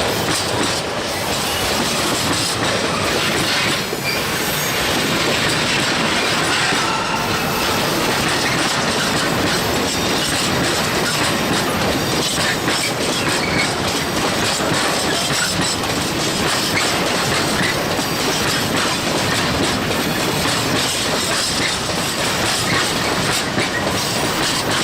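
Railway train running over rough, badly maintained track: a continuous loud rumble with dense, irregular clattering of wheels on the rails, and now and then a faint short squeal. The rough clatter is the sound of bad rails.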